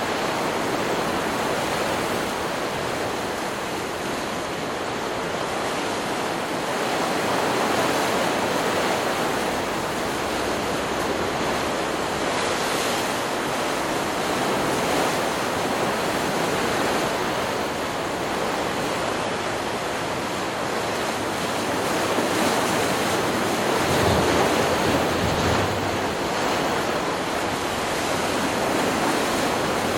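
Stock recording of ocean surf: a continuous rushing wash of waves breaking on a beach. It swells louder every several seconds, with a deeper rumble from one larger wave about three-quarters of the way through.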